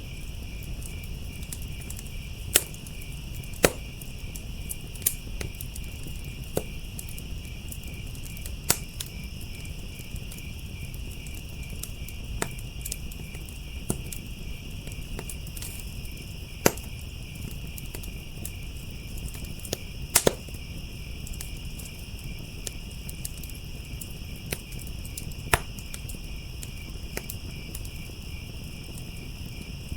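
Wood fire crackling with sharp irregular pops, a dozen or so loud ones, over a low rumble, while crickets chirp steadily in the background.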